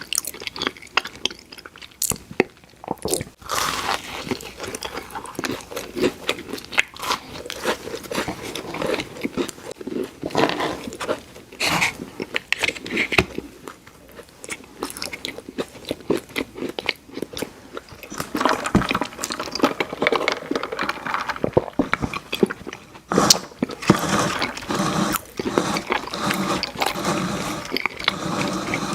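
Close-miked eating of crunchy fried food: repeated crunching bites and chewing, with louder bursts of crunching about 2, 11 and 23 seconds in.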